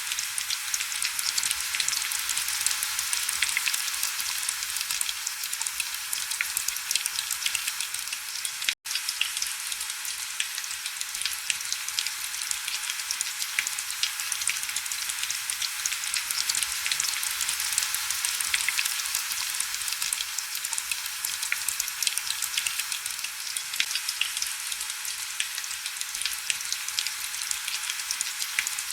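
Heavy rain falling steadily, a dense crackle of fine drop ticks over an even hiss. The sound cuts out for an instant about nine seconds in, then carries on unchanged.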